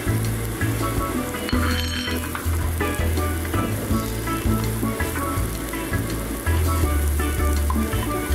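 Sliced onions sizzling in hot oil in a wok as they are stirred with a wooden spatula, over background music with a low bass line.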